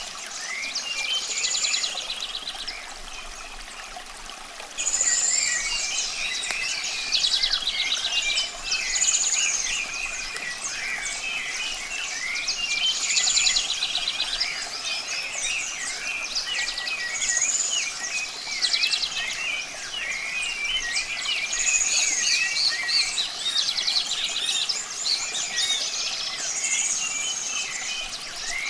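Several songbirds singing and chirping at once, one repeating a short trilled phrase every few seconds, over a steady hiss of running water. The birds get louder about five seconds in.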